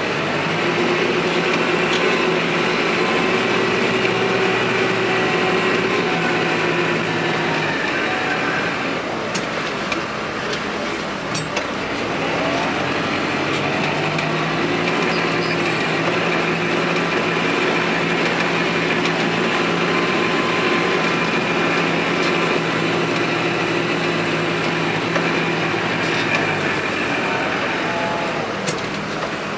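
Diesel engine working under load at high revs. It eases off about a quarter of the way in, then revs back up and holds steady, and drops back near the end.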